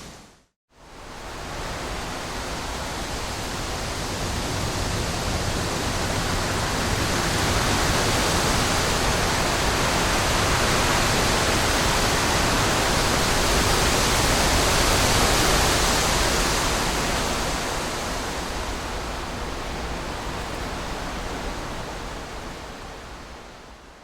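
Wind blowing as a steady, even rush. It cuts out briefly just after the start, swells gradually to its loudest a little past the middle, then eases off and fades out at the end.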